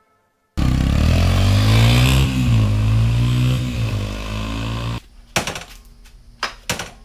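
Four-stroke dirt bike engine running, with a short rev that rises and falls in pitch. It starts and cuts off abruptly, and a few faint knocks follow.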